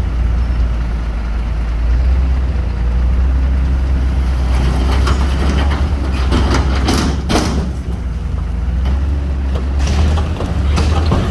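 Heavy diesel earthmoving machinery running with a steady low rumble, with bursts of clattering about halfway through and again near the end.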